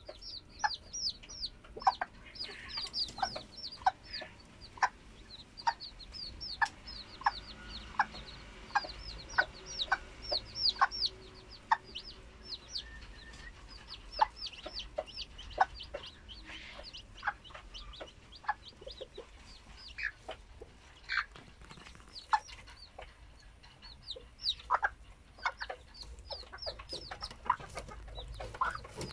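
A brood of İspenç chicks peeping continuously: rapid, high, downward-sliding peeps, several a second, with a few lower, shorter calls mixed in.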